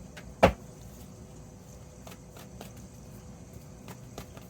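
One sharp tap about half a second in, followed by a few faint ticks over a low steady room hum.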